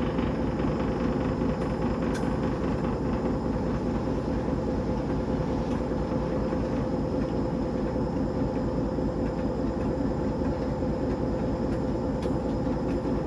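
TEP70 passenger diesel locomotive's 16-cylinder 5D49 diesel engine running, a steady drone with a constant hum.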